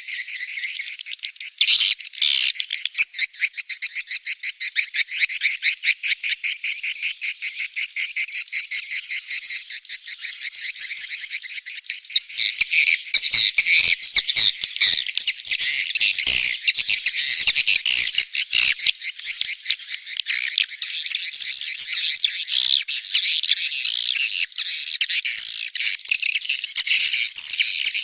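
Edible-nest swiftlets calling: a fast, high-pitched twittering of rapid clicks and chirps, a lure track of swiftlet breeding calls. For the first ten seconds it comes as an even, rapid train of chirps, then from about twelve seconds in it thickens into dense, overlapping chatter.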